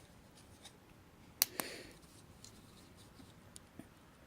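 Small handling sounds of two-part epoxy and a screwdriver being readied for mixing: one sharp click about a second and a half in, followed by a brief rustle, with faint ticks otherwise.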